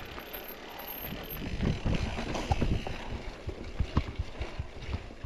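Mountain bike rolling over a dirt trail, with irregular knocks and clatter from the bike over bumps, and wind on the microphone.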